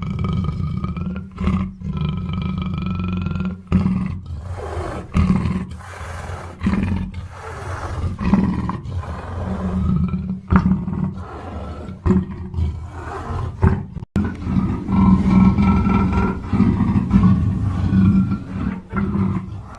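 Black panther giving a run of rough, repeated growling roars with short breaks between them, and a sudden brief cut in the sound about two-thirds of the way through.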